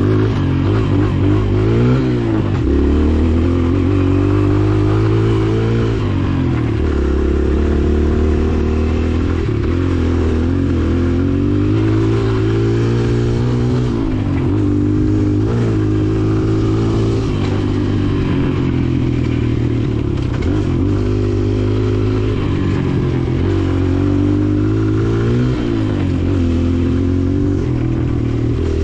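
Dirt bike engine running while riding, its revs rising and falling over and over with throttle and gear changes.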